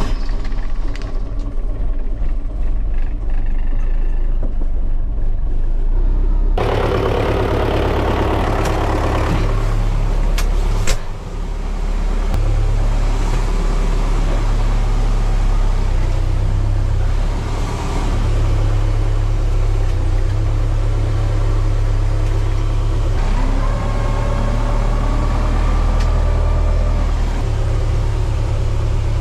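Tractor engine running steadily under load with a low, even rumble. It gets noisier about six seconds in, and there is one sharp knock about eleven seconds in.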